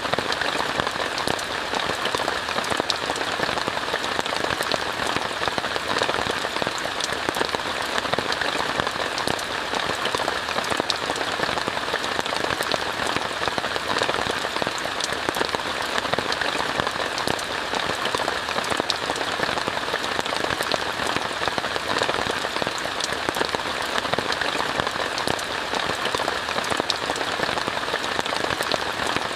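Steady rain falling on a tent, heard from inside, with many separate drops striking sharply over the even hiss.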